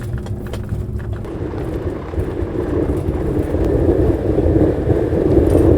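Car driving, its engine and road noise heard from inside the cabin as a steady rumble that grows louder over the last few seconds.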